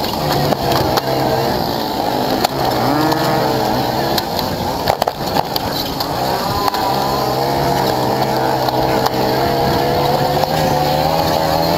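Motorcycle engine running under way, its pitch wavering and rising and falling as the revs change, with rough rolling and wind noise from the ride.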